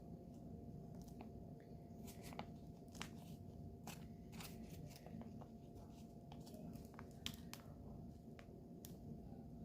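Faint, irregular small clicks and taps of nail-art tools, bottles and nails being handled on a work surface, over a low steady hum.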